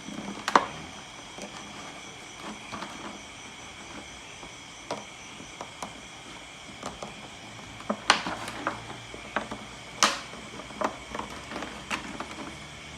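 Scissor point boring a hole in a plastic bottle: irregular clicks, crackles and knocks of the plastic, with sharper snaps about half a second, eight seconds and ten seconds in. A faint steady high whine sits underneath.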